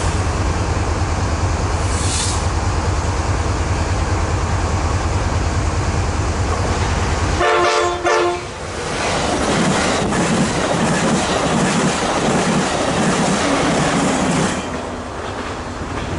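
Amtrak Pacific Surfliner passenger train passing at speed: a heavy diesel locomotive rumble, a short horn blast about halfway through, then the clatter of the passenger cars' wheels on the rails, quieter near the end.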